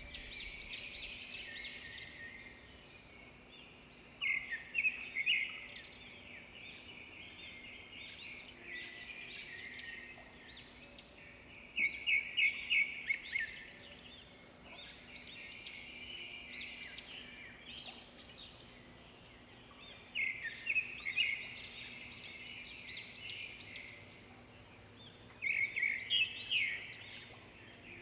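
Several small songbirds chirping and singing, with louder bursts of quick, repeated chirps every several seconds.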